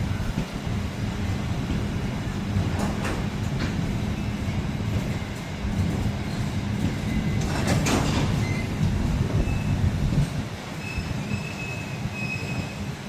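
Freight train hauled by a class 66 diesel locomotive passing on the rails, with a steady low engine hum and rolling noise. Sharp metallic clicks from the wheels on the track come about three seconds in and, loudest, about eight seconds in, and the sound eases off after about ten seconds.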